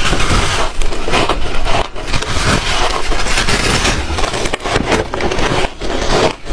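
Close-miked crunching of ice being bitten and chewed: a dense run of cracks and crunches with a couple of brief pauses.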